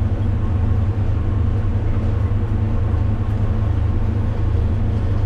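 Steady, loud low-pitched mechanical rumble with a constant hum over it, unchanging until it cuts off abruptly near the end.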